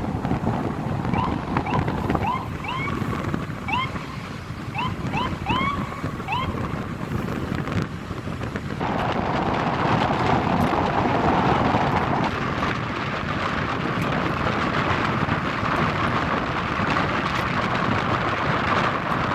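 Wind buffeting the microphone over a steady low rumble of street noise, with a run of short rising chirps in the first six seconds; the hiss grows louder from about nine seconds in.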